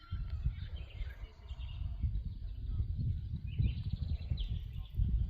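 Small songbirds chirping in short, scattered notes over a steady low rumbling background noise.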